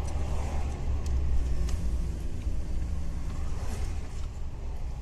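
Heavy truck's diesel engine and road noise heard from inside the cab while driving: a steady low rumble.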